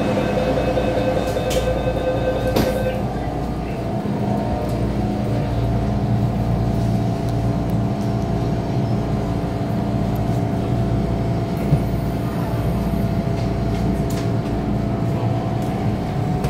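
Disneyland Resort Line train running on the track: a steady low rumble, with a whine of several steady tones that stops about three seconds in.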